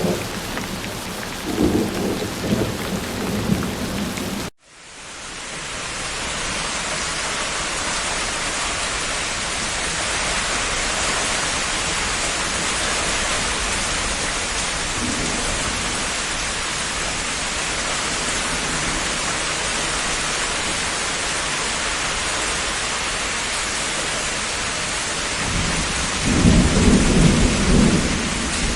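Heavy rain falling steadily, with low thunder rumbles twice, once near the start and once near the end. About four and a half seconds in, the sound cuts out abruptly and the rain fades back in at an edit point in the layered recording.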